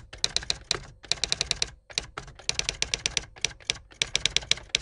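Typing sound effect: rapid key clicks, about eight to ten a second, with two short pauses, matching on-screen text typing itself out letter by letter.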